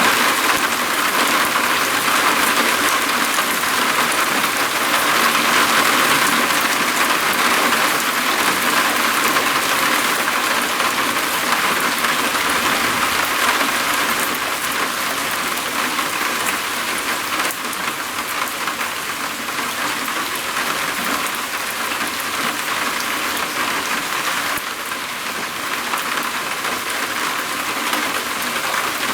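Steady rain drumming on a roof, a dense patter of drops that eases slightly about halfway through.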